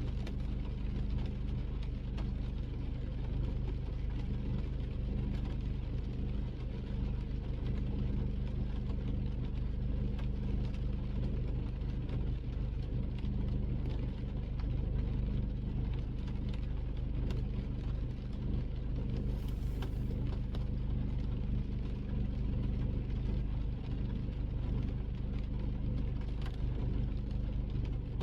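Car driving in the rain, heard from inside the cabin: a steady engine and road rumble with faint scattered ticks, and a brief hiss about two-thirds of the way through.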